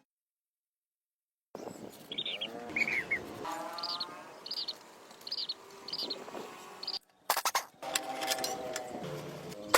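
Birds chirping in a series of short, high calls repeated about every half second. From about seven seconds in, rough scraping and scratching noises take over.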